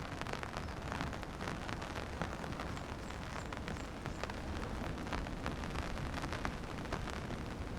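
Steady heavy rain, with many sharp drop taps close by over a dense low rumble.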